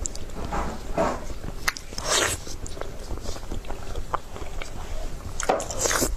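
Close-up eating sounds: a person chewing and biting food, irregular moist mouth noises with a few short louder bursts.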